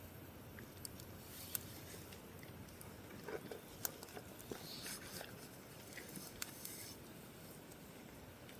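Wood campfire crackling faintly, with scattered sharp pops and snaps over a low hiss.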